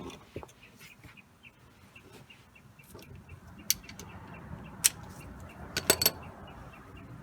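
Sharp metallic clicks and clinks from hand tools: single ones, then a quick cluster of three or four near the end. Under them runs a faint, rapid, even ticking.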